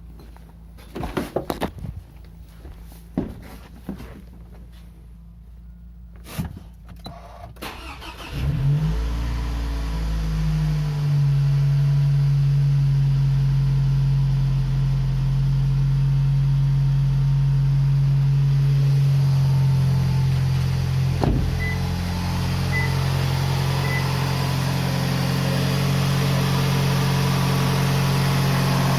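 A few sharp clicks and knocks, then about eight seconds in a freshly rebuilt Toyota RAV4 2.0 L 1AZ-FE four-cylinder engine starts. It runs a little fast for a couple of seconds, then settles into a steady, even idle, running cleanly after the connecting-rod repair.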